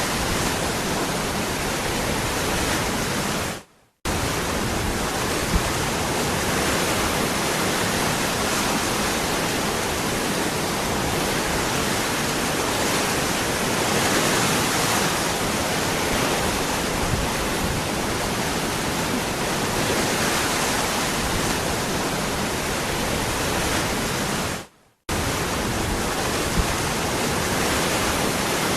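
Waterfall: a steady rush of falling water. It drops out to silence twice, briefly, about four seconds in and again near the end.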